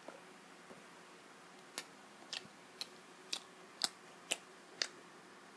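Close-miked chewing of a sausage with the mouth closed: faint, with a short sharp click on each chew, about two a second, starting about two seconds in.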